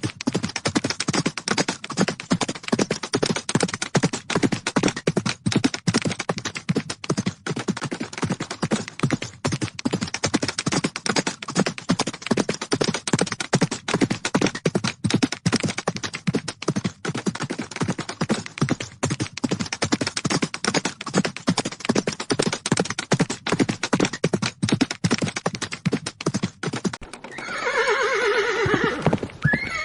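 Horse hooves galloping in a rapid, continuous run of hoofbeats. Near the end a horse neighs once.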